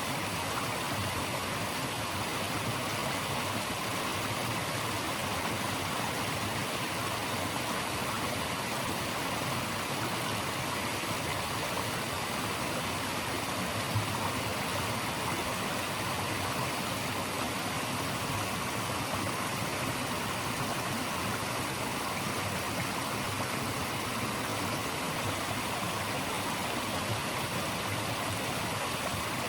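Steady rushing of a stream's flowing water, an even hiss that does not change.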